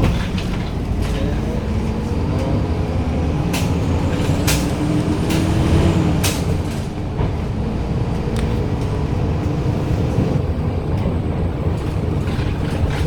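Daewoo BS106 NGV city bus's Doosan GL11P natural-gas engine running under way. Its note climbs over the first six seconds, then drops about seven seconds in, with scattered rattling clicks over the hum.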